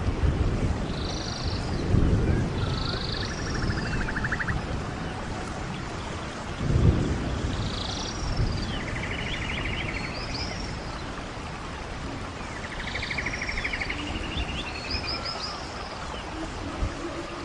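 Rainforest ambience: birds repeating short, high, arched calls, with buzzy pulsed trills lower down, over a steady background hiss. Low rumbles swell about two and seven seconds in.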